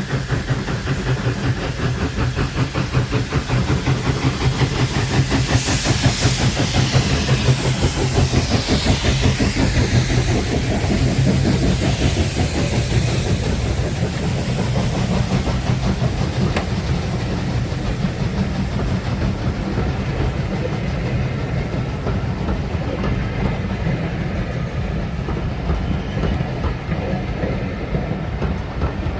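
A steam-hauled train passing close by, its wheels clattering rapidly over the rails. Steam hisses loudly through the first half, then eases, while the carriages keep rolling past.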